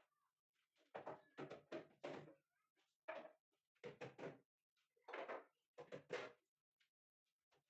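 A series of about a dozen short, quiet knocks and clatters, spaced irregularly, from household things being handled and set down.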